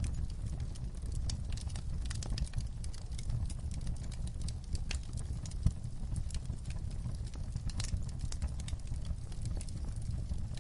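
Wood fire crackling in a fireplace: irregular sharp pops and snaps over a low steady rumble, with one louder pop a little past the middle.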